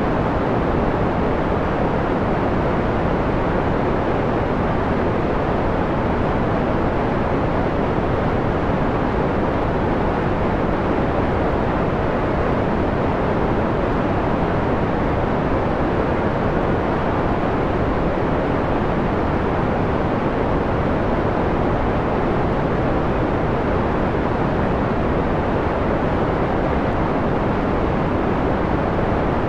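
Steady synthetic white noise, filtered to a dull, mellow hiss with the treble rolled off, so it sounds close to a soft rumbling rush. It holds even throughout with no changes.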